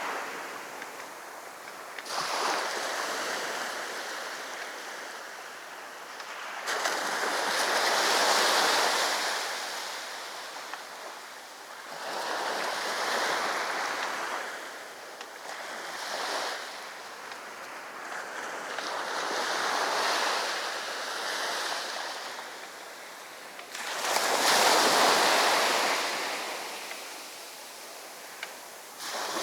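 Sea waves breaking on the shore: the surf swells and washes back about six times, every four to five seconds, the loudest a little after two-thirds of the way through.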